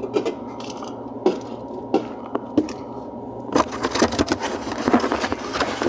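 Soda cans knocking and clattering as they are handled and set down: scattered single knocks at first, then a dense run of clatter in the second half.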